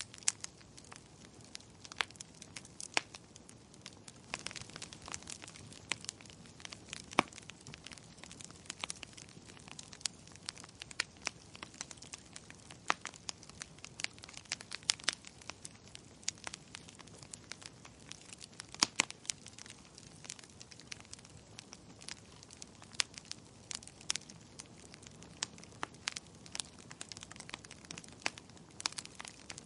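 Campfire crackling: irregular sharp pops and snaps, several a second, over a soft steady hiss.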